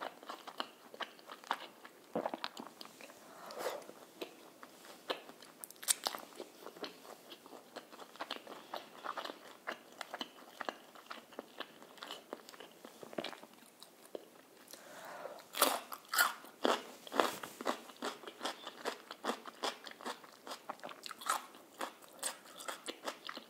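Close-miked crunching and chewing of crispy fried chicken, a run of sharp crackling bites and chews, loudest a little past halfway through.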